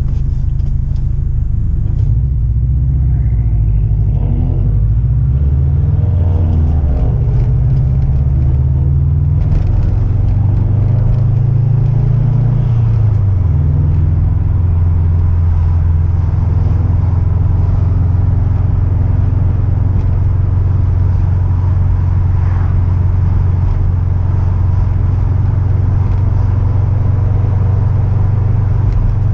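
Car engine running with a deep rumble, its pitch rising and falling a few times in the first dozen seconds or so, then settling into a steady drone.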